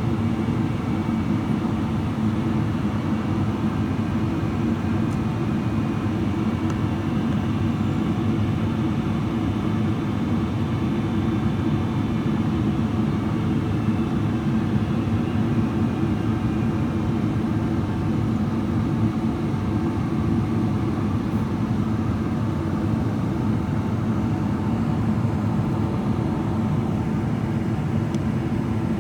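Steady cabin noise of a Boeing 777-300ER in descent: the rush of airflow and the low hum of its GE90 engines, with faint steady whines above.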